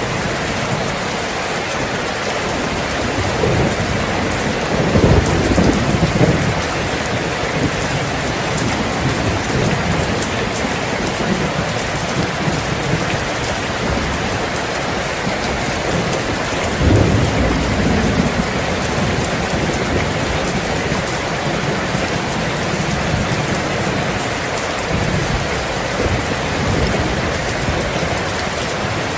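Steady rain falling hard, with low rolls of thunder rumbling twice, about five seconds in and again about seventeen seconds in.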